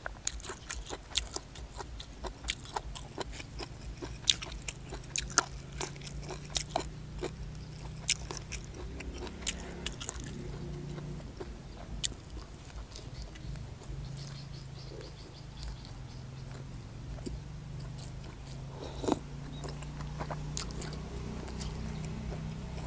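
Close-up chewing and biting of a mouthful of hed phor puffball mushroom curry with sticky rice. There are many sharp, crisp crunches and mouth clicks in the first ten seconds, then slower, softer chewing. A low hum runs underneath from about eight seconds in.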